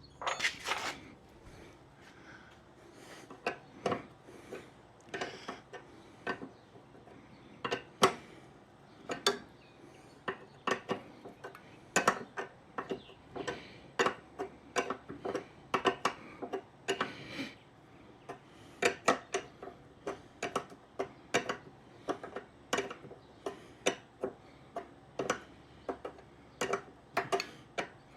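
Irregular sharp metallic clicks and clinks of a hand wrench on metal, several a second in clusters, as a fuel inlet fitting is tightened down.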